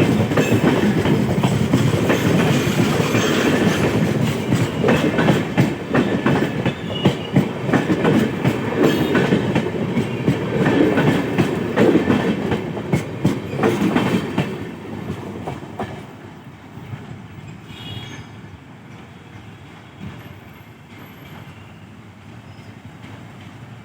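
Passenger train's LHB coaches rolling past, the wheels clattering rapidly over the rail joints. The clatter falls away about fifteen seconds in, leaving a much quieter rumble.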